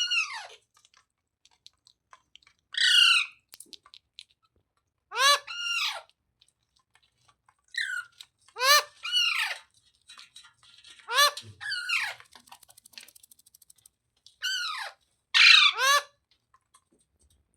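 Green ringneck parrot squawking: loud, harsh calls that drop in pitch, coming singly or in quick pairs every two to three seconds.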